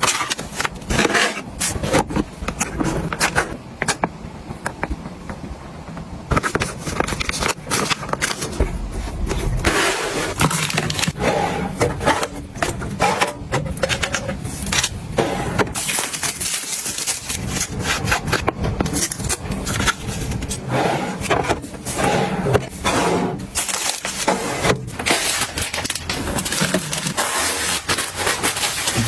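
Kitchen items being handled: a dense run of knocks, clicks and clatter as things are picked up and set down, with scraping and rubbing in between.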